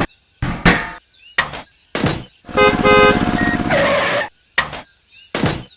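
Two short horn toots a little over halfway through, amid a choppy run of brief sounds that start and stop abruptly.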